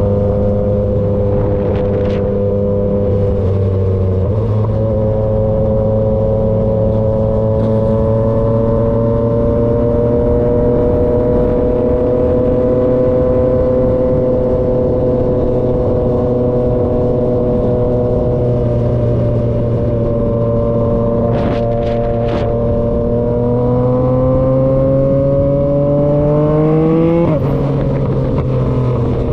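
Yamaha XSR900's three-cylinder engine through an SC-Project CRT exhaust, running under steady throttle on the move. The pitch steps about four seconds in, then holds. Near the end the revs climb and then drop sharply.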